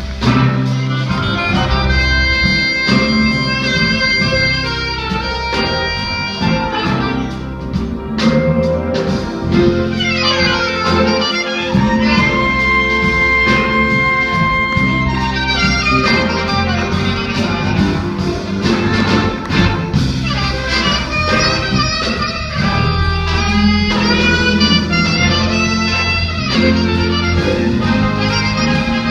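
Band playing an instrumental passage: a lead line of long held notes over bass and a steady beat.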